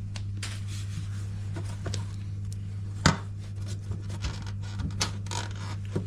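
Handling noise from taking apart a washing machine's casing: scattered clicks, rubs and knocks of parts being moved, with one sharper knock about three seconds in, over a steady low hum.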